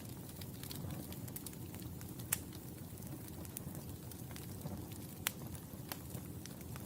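Wood fire burning in a fireplace: a steady low rumble of flames with scattered crackles and a few sharp, louder pops.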